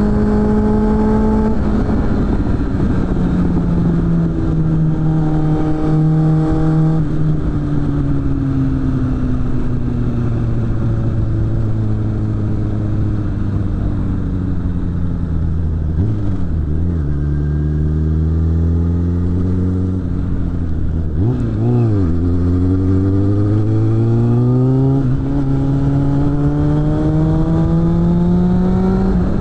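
Suzuki GSF600 Bandit's inline-four engine through a BOS aftermarket exhaust, under way: the engine note holds, then falls steadily for several seconds as the bike slows, wavers twice, and climbs again under acceleration with a short dip in pitch partway through the climb. Wind rush runs underneath.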